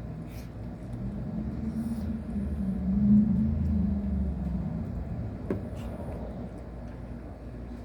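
A low rumble that swells to its loudest about three seconds in and then fades, with a few faint sharp clicks.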